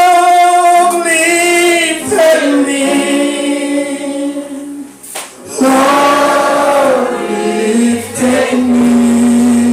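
Voices singing together in long held phrases, with low sustained notes underneath.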